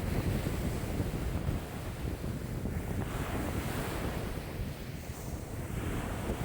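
Wind-driven waves on a lake washing in, with strong wind buffeting the microphone as a low rumble.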